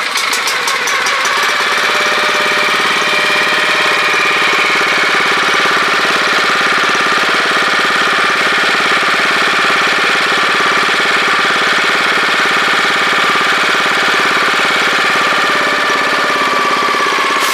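4.3 hp gasoline engine of a Maruyama MS313EW power sprayer set running steadily at a constant speed.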